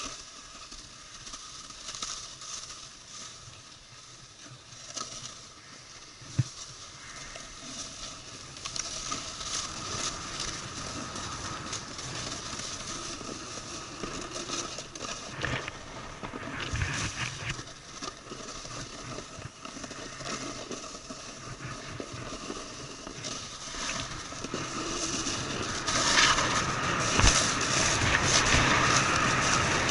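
Snowboard sliding and scraping over snow: a continuous hiss and rasp with a few knocks, getting louder through the run and louder still about four seconds from the end.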